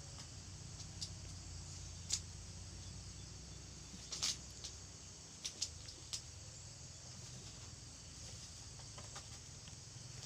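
Kittens playing: scattered light taps and scuffs, loudest about two and four seconds in, over a faint steady low hum.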